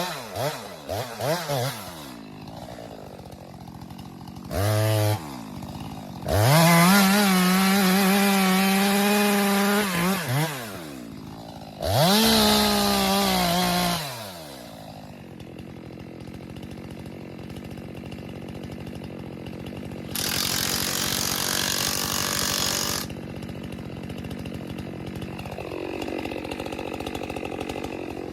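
Chainsaw blipped quickly at the start, then run up to full speed twice as it cuts, for about four seconds and then two, dropping back to a low idle in between. Near the two-thirds mark a rushing noise lasts about three seconds while the saw idles.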